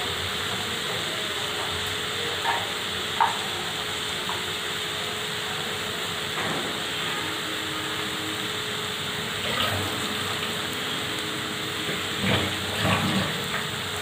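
Sliced onions and spice pastes frying in oil in a kadai, a steady sizzle as the masala is fried down. A few short scrapes of a metal spatula against the pan break in now and then.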